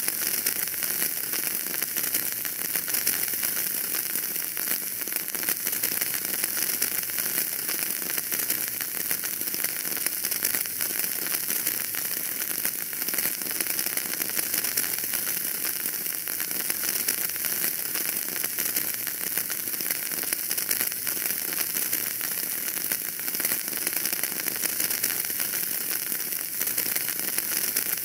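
Wood fire in a fireplace burning steadily, with a dense, continuous patter of small crackles over a soft hiss.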